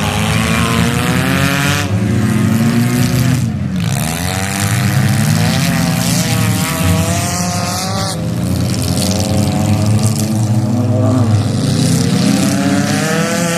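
Several demolition derby cars' engines revving hard at the start of a heat. Overlapping engine notes rise and fall again and again as the drivers accelerate and back off.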